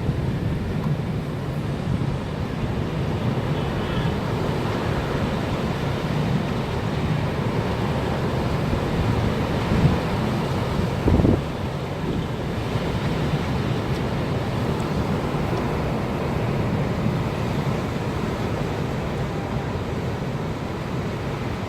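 Wind buffeting the microphone in a snowstorm: a steady, rumbling rush, with a brief louder bump about halfway through.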